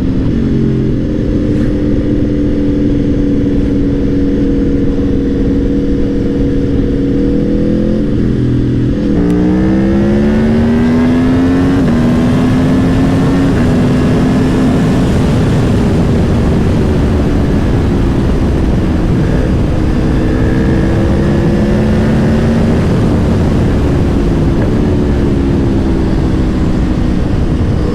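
Onboard sound of the Aprilia Tuono V4 Factory's V4 engine under way at speed, with heavy wind rush over the microphone. The engine note sags gently, drops about eight seconds in, then climbs as the bike accelerates and the wind grows louder. After that the note rises and falls with the throttle.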